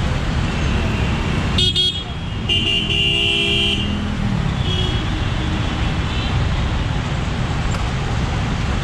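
Motorcycle riding in city traffic: steady wind rush and engine rumble on a helmet-mounted action camera's built-in mic. A vehicle horn sounds briefly about a second and a half in, then a louder, longer horn blast follows, with fainter honks later.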